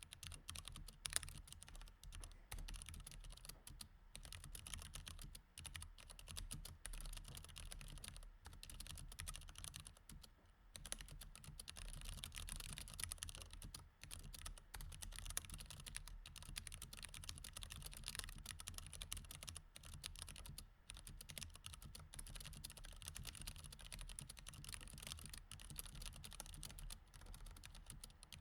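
Mechanical keyboard with Cherry MX Red switches being typed on fast and continuously, a quiet stream of key clicks with a few short pauses.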